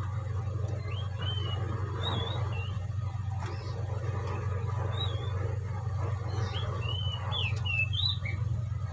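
Small birds chirping in short rising and falling notes, a few early on and a quick cluster of them near the end, over a steady low hum.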